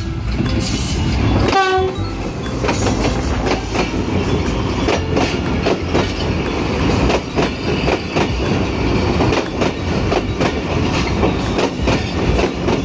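Railway train running past close by, loud and continuous, with a rapid irregular clatter of wheels over rail joints. A short tone sounds about one and a half seconds in.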